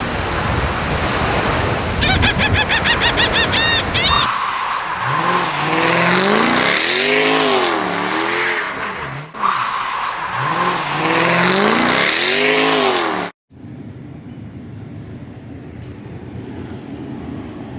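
Vehicle engine noise with squealing, the pitch gliding up and down repeatedly as if revved, cut off abruptly about thirteen seconds in; then a quieter steady background noise.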